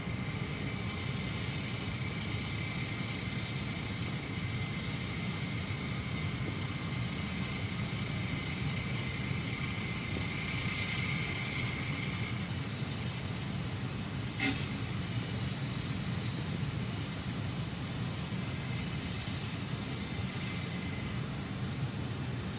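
Freight train of open-top wagons rolling past, a steady rumble and clatter of wheels on rails, heard from inside a car. A thin high steady tone rides over it for the first half and fades later, and one sharp knock comes about two-thirds of the way through.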